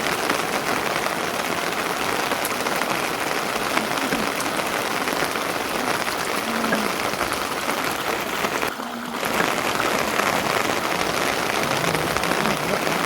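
Steady rain falling, an even hiss of drops that dips briefly about nine seconds in.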